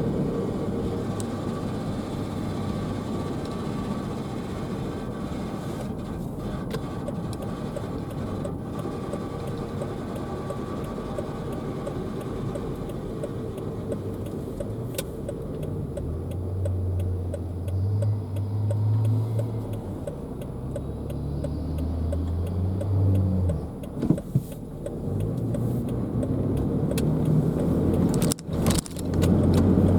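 A car driving, heard from inside, with a faint jangling, clinking rattle running through the road and engine noise. The owner likens this rattle to ice cubes in a blender: it comes from the passenger side and stops when the brake is pressed, and its cause is not known.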